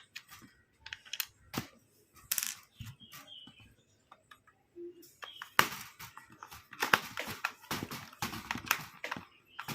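Small screws being driven with a screwdriver into the plastic back cover of an electric mosquito racket: scattered light clicks and ticks, becoming a denser run of clicking and scraping about halfway through.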